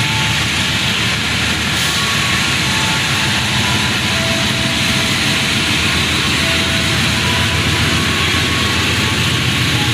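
Passenger train hauled by a diesel locomotive, running: a steady loud rushing noise over a low engine rumble, with short faint squeaks now and then.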